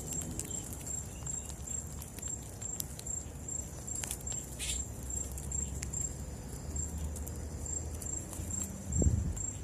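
An insect chirping steadily in a high, thin pulse a few times a second, over scattered light clicks and patter of animals pecking and moving about in birdseed. A low thump comes near the end.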